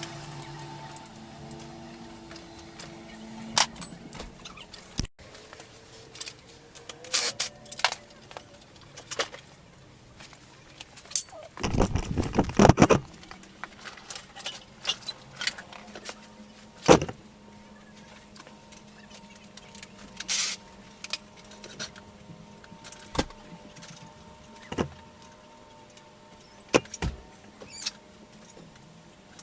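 Scattered metallic clinks and knocks of hand tools and parts being handled, with a denser rattling clatter lasting about a second a little before the middle.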